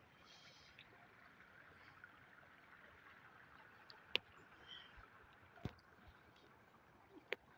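Near silence: a faint, steady outdoor hiss with a few sharp clicks.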